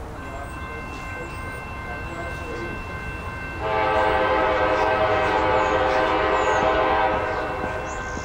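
Freight locomotive air horn sounding one long chord, starting about three and a half seconds in and lasting about three and a half seconds, over the low rumble of a passing train.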